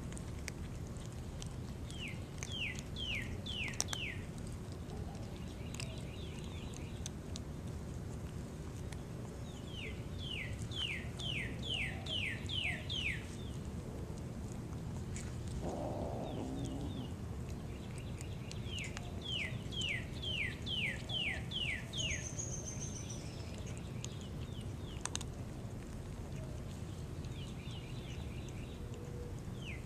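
A songbird singing, repeating a phrase of four to eight quick downward-slurred notes roughly every eight seconds, over a steady low background hum.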